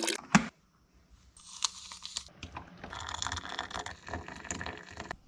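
Rustling, crinkling and tearing of a plastic or paper packet being handled, with one sharp click about a third of a second in.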